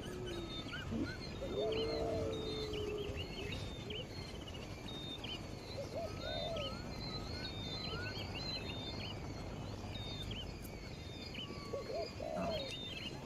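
Wild birds calling: many short, high chirps repeat throughout, with a run of four quick rising notes midway. A lower, hoot-like call sounds three times, each lasting about a second.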